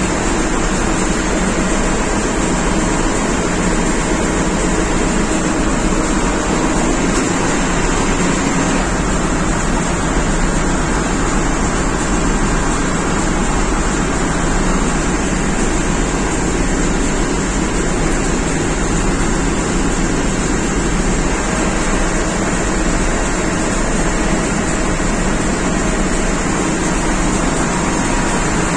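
Steady, loud machinery noise with a low hum and a few faint steady tones underneath, unchanging throughout: diesel engines running in an engine room.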